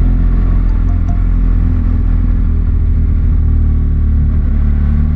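BMW R1200GS Adventure's boxer-twin engine running at low, steady revs.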